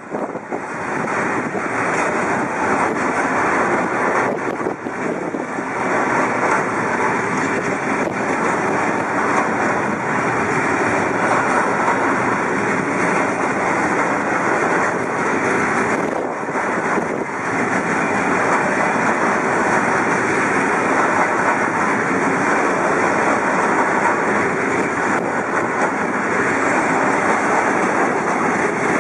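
Long intermodal freight train of loaded swap-body wagons rolling past: a steady, loud rush and rumble of steel wheels on rail.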